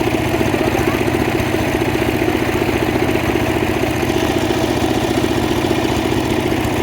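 Engine of a homemade circular-saw sawmill running steadily with a fast, even pulse.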